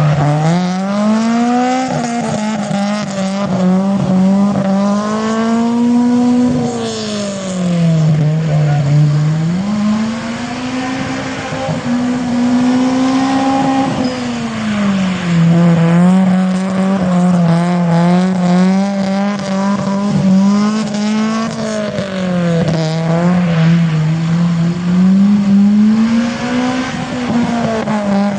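Car engine held high in the revs while drifting, its pitch rising and falling every few seconds as the throttle is worked, with tyres squealing.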